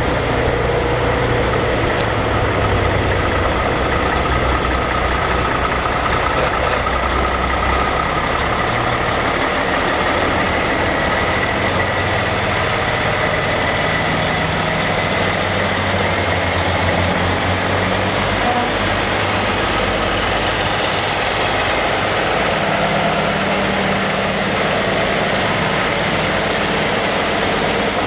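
Heavy diesel trucks running at low speed as they pass in a line, the deep engine note changing every several seconds as one truck gives way to the next.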